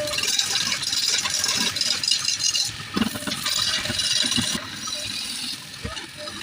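Turning tool cutting a spinning wooden bowl blank on a wood lathe: a scraping hiss of the cut that comes and goes in passes, with scattered knocks.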